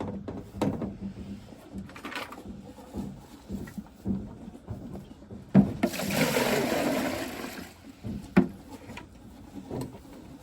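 Water poured from a bucket into the horses' water bucket, a rushing splash lasting about two seconds near the middle, amid scattered knocks and clatters.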